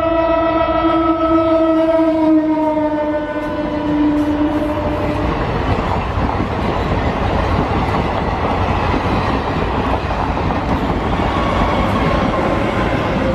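Horn of a passing DEMU diesel local train: one long blast that falls in pitch as the train goes by and stops about five seconds in. After that comes the steady rumble and clatter of the train's wheels running past.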